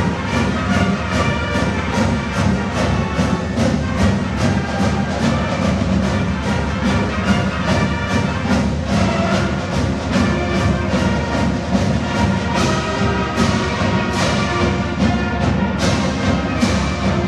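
High school marching band playing a march: brass carrying the tune over a steady drum beat of about two strokes a second.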